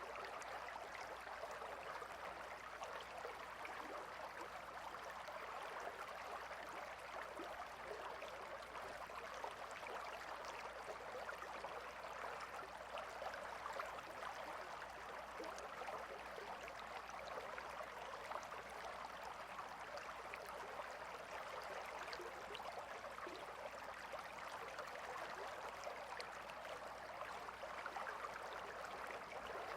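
Gentle river flowing, a soft, steady rush of water with fine trickling detail.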